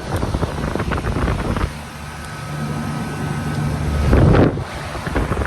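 1983 Lennox HS18 central air conditioner condensing unit with a Tecumseh compressor running steadily: condenser fan whooshing over a low compressor hum. Wind buffets the microphone, with a brief louder gust about four seconds in.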